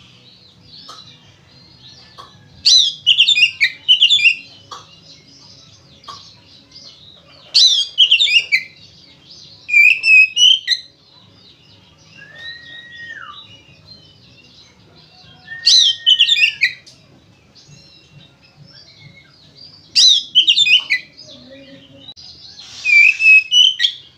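Oriental magpie-robin (kacer) singing loudly in its fighting song: about six bursts of rapid, varied high notes separated by short pauses, with a clear slurred whistle in between.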